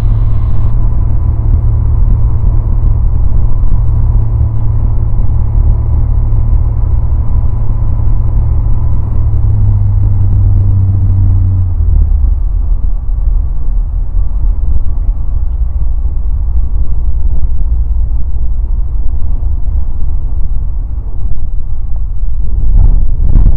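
Light aircraft's engine and propeller running with a steady drone. About twelve seconds in, the engine note changes and drops lower, as when power is pulled back.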